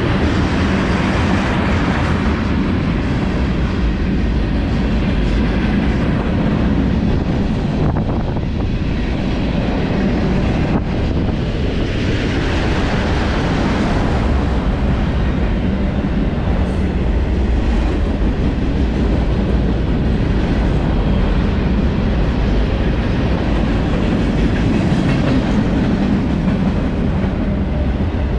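Freight train passing close by: a steady, loud run of wheels on rails.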